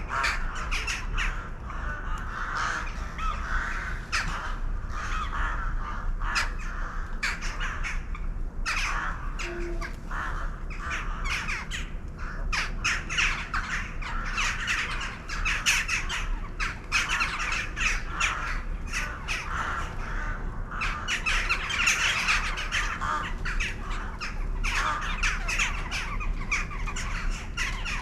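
A flock of birds calling continuously, many short, harsh calls overlapping in a dense chorus.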